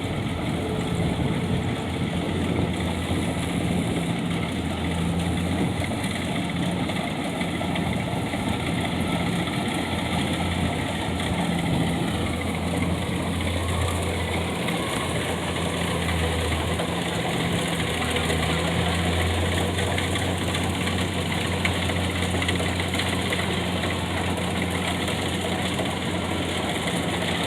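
Tractor engine running steadily, a low even hum that wavers slightly in strength.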